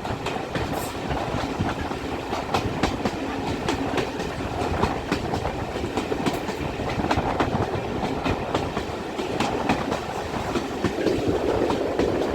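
Railway carriage running along the track, its wheels clicking over rail joints with irregular sharp clicks over a steady rolling rumble.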